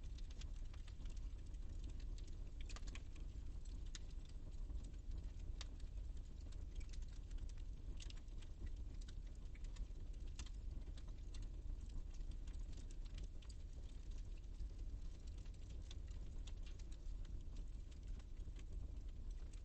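Fireplace fire crackling, with irregular small pops and snaps over a steady low rumble.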